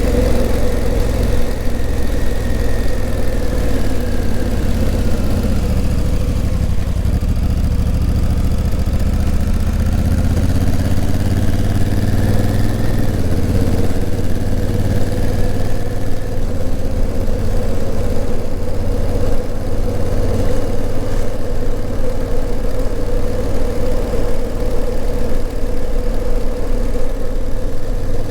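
Honda CRF1000L Africa Twin's parallel-twin engine running on the move. The engine note falls for several seconds, then climbs again with a brief drop about halfway through, and settles into a steady run.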